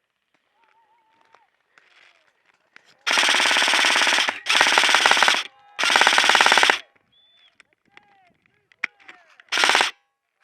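Airsoft gun firing on full auto close by: three long bursts, each a second or so, in quick succession a few seconds in, then one short burst near the end.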